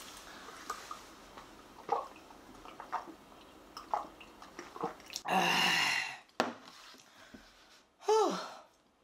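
A person chewing a mouthful of steak sandwich, with small wet clicks of the mouth. A little past halfway there is a loud breathy rush lasting about a second, and near the end a short falling vocal sound.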